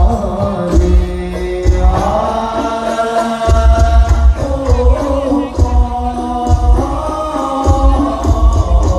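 Sholawat sung as a chant with long held notes, over hadroh percussion with a deep, beating bass drum.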